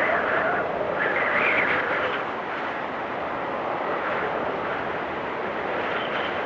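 Blizzard wind blowing steadily, with gusts that swell and rise in pitch near the start and again about a second in.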